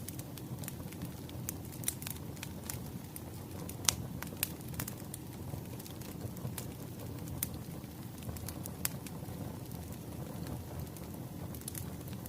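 Wood fire crackling: a steady low rumble with irregular sharp pops and snaps, one louder pop about four seconds in.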